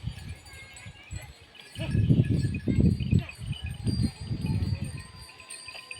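Small animal bells jingling, as worn by working livestock, with irregular low rumbling that is loudest from about two to five seconds in.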